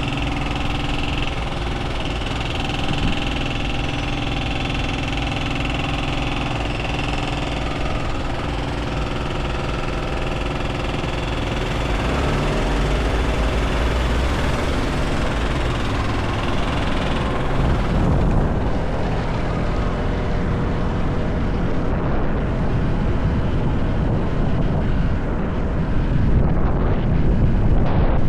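Motorcycle engine running at steady revs. About halfway through the steady engine note breaks up into a lower, rougher rumble, with wind noise on the microphone building toward the end as the bike rides on.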